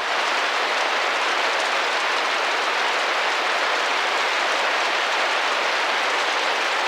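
Steady rain drumming gently against a window pane: an even, unbroken patter with no single drops standing out.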